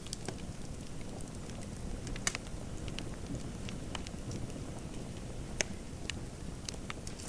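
Fire crackling: a low steady rumble with scattered sharp pops, two of them louder, a little after two seconds in and again past five seconds.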